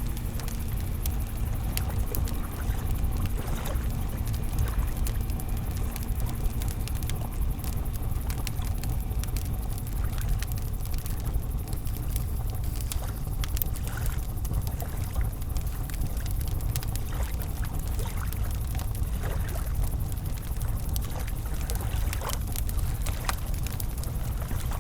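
Wood campfire crackling, with frequent small sharp pops scattered irregularly, over a steady low rumble.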